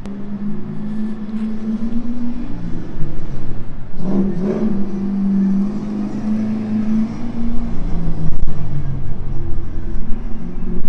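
LS1 V8 engine of a drift car running on track, its note holding fairly steady and shifting in steps, with a short surge of revs about four seconds in.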